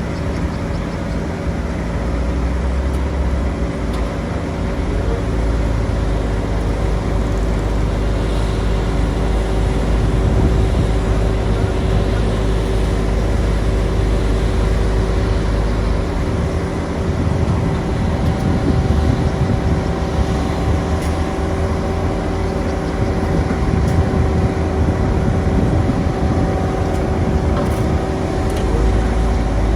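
Heavy road construction machinery engine running steadily with a deep, low rumble. The rumble changes character about halfway through and again near the end, as the machine's load or work shifts.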